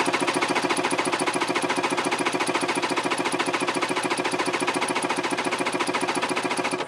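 Yamaha GP760 two-stroke twin being cranked over on its electric starter for a compression test of the PTO-side cylinder, which reads 145 PSI. The cranking gives a fast, even pulsing and cuts off suddenly at the end.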